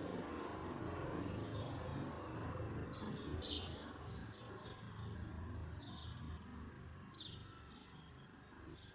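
Small birds chirping in short, high, scattered calls, more of them from about three seconds in, over a steady low background rumble.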